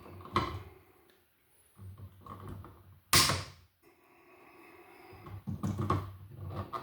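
Hand-work noises of wiring a receptacle: wires, a device and tools scraping and rustling in an electrical box, with one sharp click about three seconds in.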